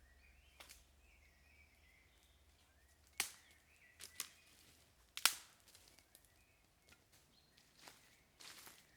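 Five sharp knocks or cracks, a second or so apart at first and then close together, two of them much louder than the rest, with a softer stretch of noise near the end.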